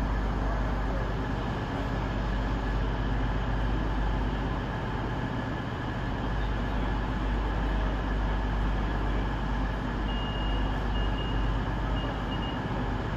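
CrossCountry Voyager diesel multiple unit's underfloor diesel engines running with a steady deep rumble. A faint, broken high whistle comes in briefly near the end.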